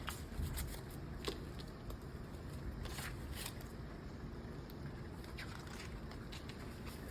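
Paper money and envelopes being handled, with a few short crinkles and scrapes, over the steady hiss of heavy rain.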